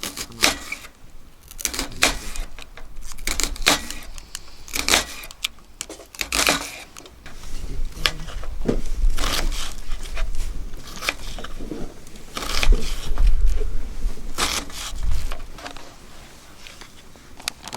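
Irregular clicks and knocks of things being handled, with bursts of low rumble.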